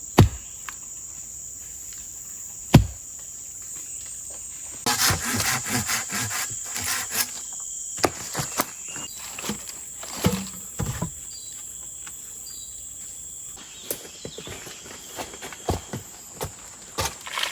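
A steady high-pitched insect drone in tropical forest, with sharp knocks about a quarter of a second and nearly three seconds in, a stretch of rustling and knocking from about five to seven and a half seconds in, and scattered light knocks after that.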